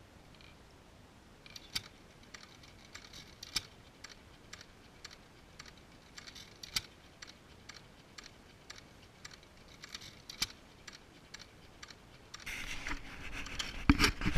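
Antique single-cylinder hit-and-miss engine being worked by hand, with light irregular clicking about twice a second, then about twelve seconds in it starts running, with a louder stretch of noise and a sharp bang near the end.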